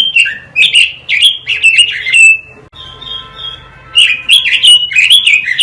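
A quế lâm songbird singing loud, rapid strings of short, sharp notes that swoop down in pitch, in two bouts with a pause of about a second and a half in the middle.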